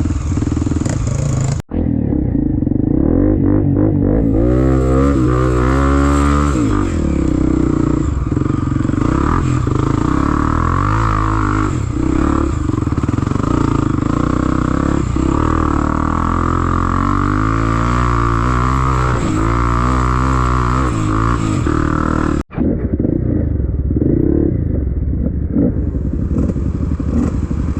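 Trail motorcycle engine revving, its pitch rising and falling again and again as the throttle is worked, with mechanical clatter. The sound cuts out for an instant twice.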